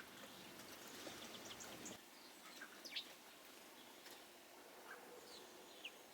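Small garden birds chirping, scattered short, faint chirps and calls over a quiet background hiss, with one clearer chirp about halfway through.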